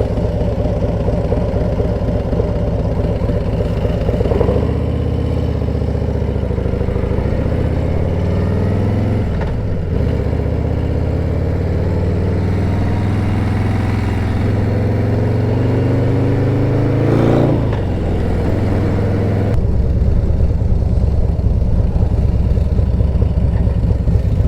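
Harley-Davidson Road Glide ST's V-twin engine running at road speed, its note dipping and rising with throttle and gear changes and climbing steadily for several seconds in the middle. The sound changes abruptly near the end.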